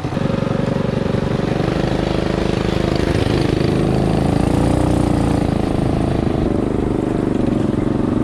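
Coleman CT200U mini bike's small single-cylinder engine running under throttle as the bike is ridden; it picks up right at the start and its pitch rises and falls back through the middle.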